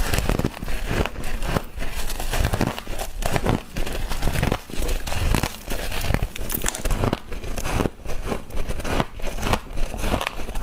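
Close-up chewing of a mouthful of soft frost, a dense run of crisp, irregular crunches and crackles.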